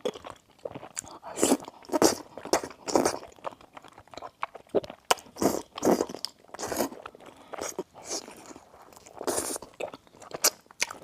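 Close-miked chewing and biting of crunchy food: irregular crisp crunches, several a second, in uneven clusters.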